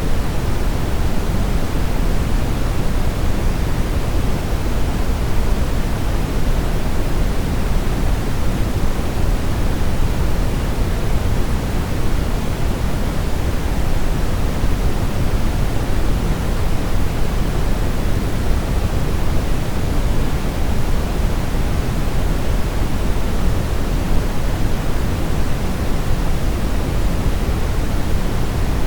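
Steady brown noise: an even, deep rushing hiss, strongest in the bass and fading toward the treble, with no change throughout.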